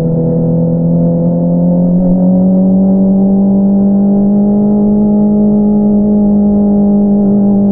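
2022 Honda CBR650R's inline-four engine through an Akrapovič exhaust, running at a steady cruise with an even hum. Its pitch rises a little about two seconds in, then holds.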